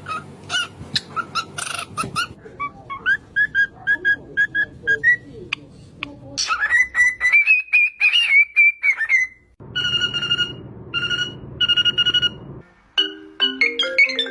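Parrot whistling: a quick run of short whistled notes, then one long rising, wavering whistle, then three steady beep-like tones in a row, like a mimicked ringtone or alarm.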